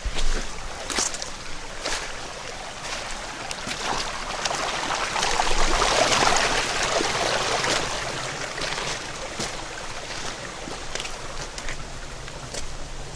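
Mountain headwater stream rushing and splashing over rocks. It swells louder around the middle, then eases, with scattered short knocks.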